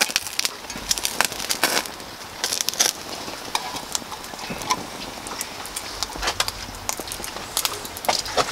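Wood fire of pallet fatwood and poplar in a small camp stove, crackling and spitting with irregular sharp pops as resin oils cook out of the fatwood.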